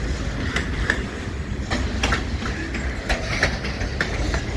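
Diesel-led freight train rolling past close by: a heavy low rumble with irregular sharp wheel clicks.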